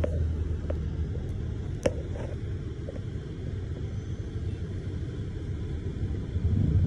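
Low, steady rumble of a car's idling engine heard inside the cabin, with a few light clicks and taps, the sharpest about two seconds in.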